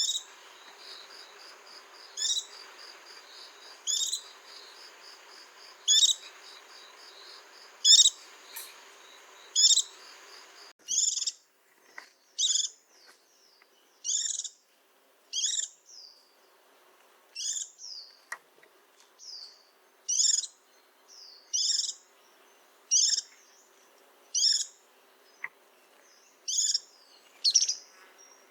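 White-eye giving short, high chirps, about one every two seconds at first, then coming faster, about one a second, from about eleven seconds in.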